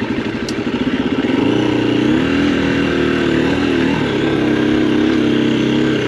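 Husqvarna FE 350 single-cylinder four-stroke dirt bike engine, chugging at low revs at first, then held at steady higher revs from about a second and a half in, with small rises and dips in pitch.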